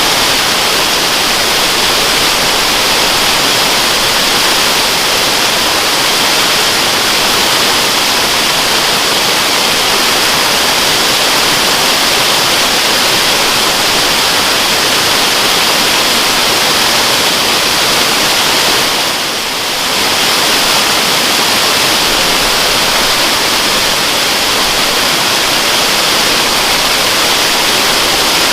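Waterfall: a steady rush of falling water, a dense hiss strongest in the upper range, briefly dipping in level about two-thirds of the way through.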